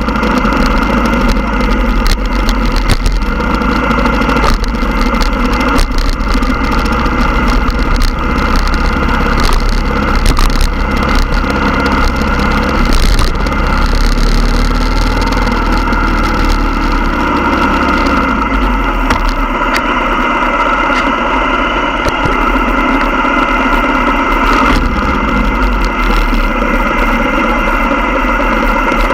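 Motorcycle engines running steadily, a loud, continuous engine drone with a low rumble.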